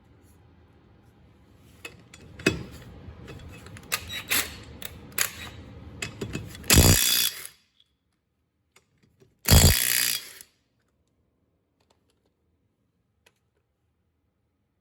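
Clicks and knocks of a socket and tool being handled, then two short bursts of a Ryobi ONE+ 18V R18IW3 cordless impact wrench working a lug bolt, each about a second long and a few seconds apart.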